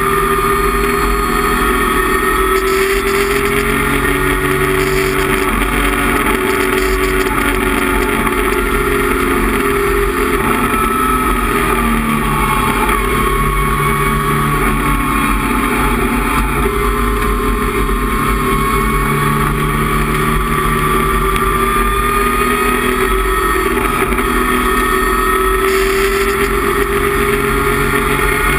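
Datsun 260Z race car's 2.6-litre straight-six running hard under racing load, heard from inside the cockpit. The engine note sags slightly about halfway through, then climbs steadily toward the end.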